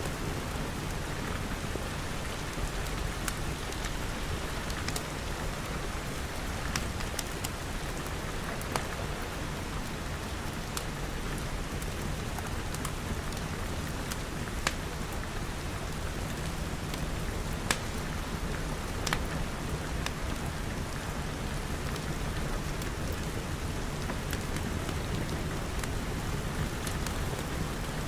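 Steady rain falling on a glass roof and walls, with scattered sharp pops from a crackling wood fire.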